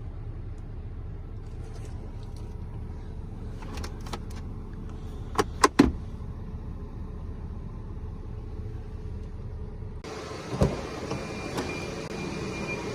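Mazda Flair Wagon kei car with its engine idling in a steady low hum. A few sharp clicks and clunks come about four to six seconds in, and a single thump comes near the end, as the background grows louder.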